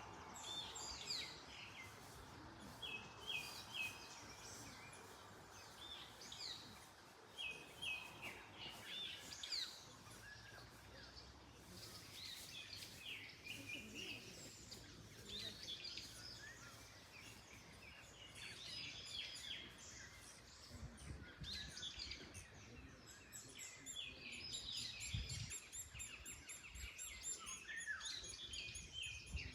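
Several birds chirping and singing in short repeated phrases throughout, over a faint background hush of wind.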